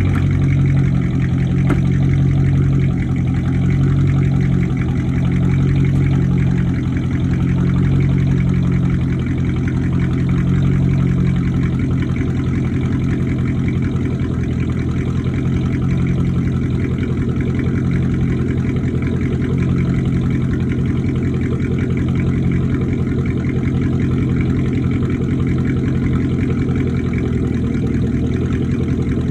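Dodge Charger's 5.7-litre Hemi V8 idling steadily through straight pipes and high-flow catalytic converters, a deep even exhaust note with no revving.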